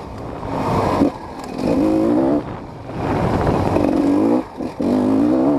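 GasGas EC 250 two-stroke dirt bike engine revving and accelerating. Its pitch rises in about three pulls, dropping briefly between them.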